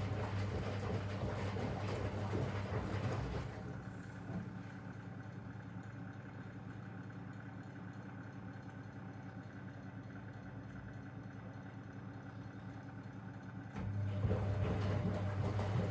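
Zanussi DL22 front-loading washing machine during a 90 °C boil wash: the drum motor hums as the drum tumbles the laundry, stops after about three and a half seconds, stays at rest for about ten seconds, and starts turning again near the end.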